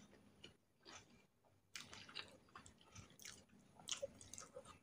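Faint, wet mouth sounds of a person chewing a mouthful of rice with chicken rendang, with small lip smacks and clicks. The sounds pause briefly about half a second in and pick up again just before two seconds in.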